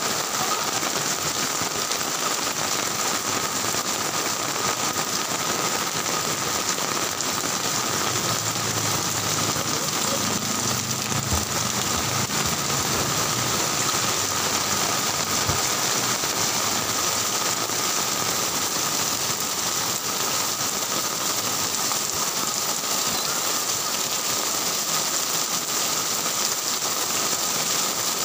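Heavy rain pouring steadily onto a street, a dense even hiss with no let-up.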